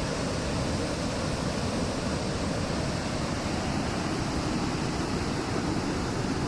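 Rushing water of the river Lech, a steady, even roar of fast-flowing current.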